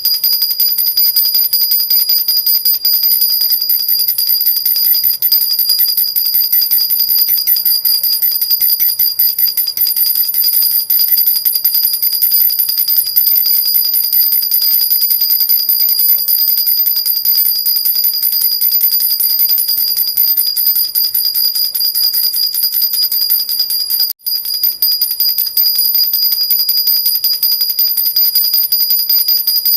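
A silver jhunjhuna, a metal baby rattle with jingle bells, shaken continuously in a fast, steady jingle with a bright high ringing, broken by a brief pause about 24 seconds in.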